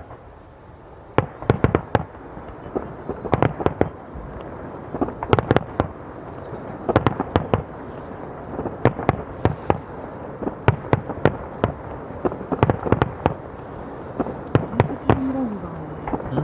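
Aerial firework shells bursting in rapid, overlapping volleys of sharp bangs, starting about a second in and keeping on in clusters.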